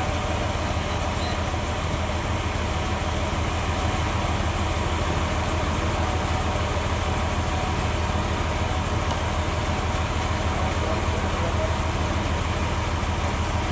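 Band sawmill machinery running with a steady low hum that does not change in pitch or level.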